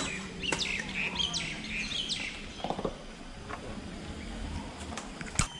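Birds calling: a handful of short, high chirps, each falling in pitch, in the first two seconds or so over a faint background. A single sharp click near the end.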